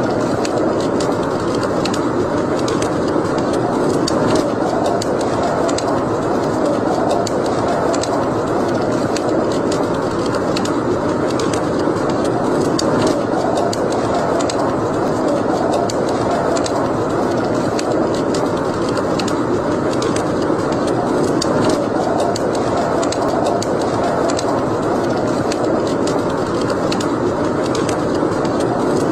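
Wood fire burning in a fireplace: a steady rushing hiss with frequent small crackles and pops.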